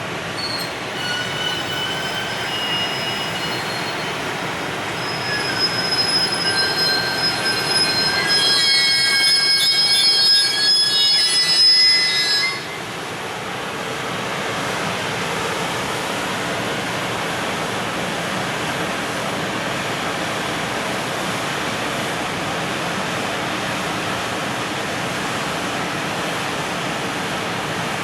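Container freight train of Koki wagons behind an EF510 electric locomotive pulling out: the wheels squeal in several high pitches over a steady rolling noise, louder around ten seconds in. The squeal stops abruptly about twelve seconds in, and the even rolling noise of the wagons continues.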